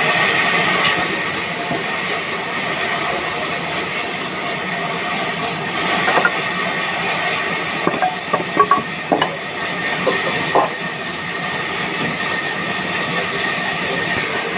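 Band sawmill machinery running steadily with a high whine, and a cluster of sharp knocks and clanks in the middle.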